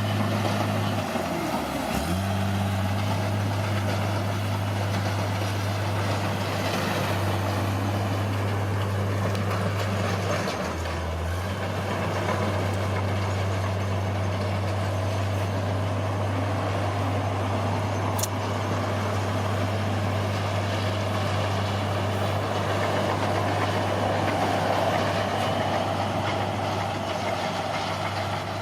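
Heavy diesel engine of earthmoving machinery running steadily under load, its low hum dipping briefly in pitch about two seconds in and again around ten seconds in.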